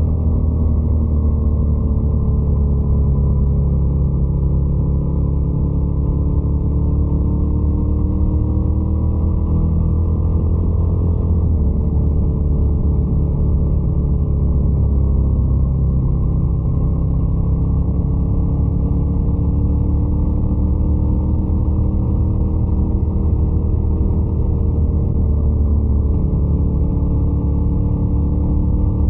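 Ducati Scrambler 800's air-cooled L-twin engine running steadily under way, its pitch easing slowly up and down with small throttle changes.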